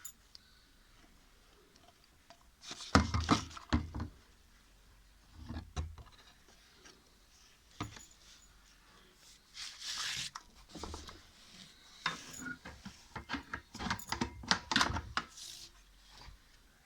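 Hands working the washing machine's plastic drain pipe and its joints as they are sealed with silicone: scattered knocks, clicks and rubbing in short clusters, the loudest knocks about three seconds in and a busy run of clicks near the end.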